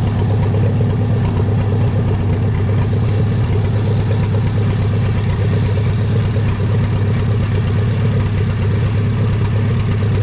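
Tractor engine running steadily at a constant speed, close by.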